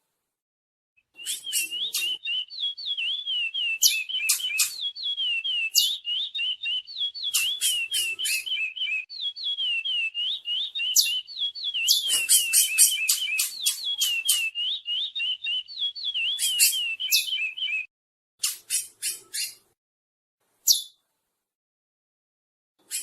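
Chestnut-bellied seed finch (curió) song: a fast, unbroken run of wavering notes with sharp high notes mixed in, starting about a second in and stopping after about seventeen seconds, followed by a few separate sharp notes.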